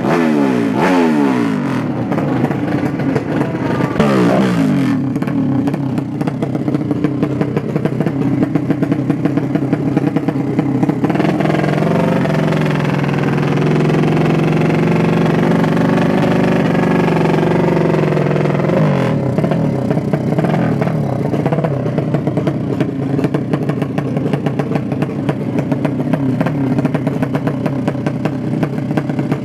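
Drag-racing motorcycle engines revving and running, with more than one engine heard at once. The pitch sweeps down right at the start, climbs again a few seconds in, and holds a steadier note for several seconds mid-way before changing again.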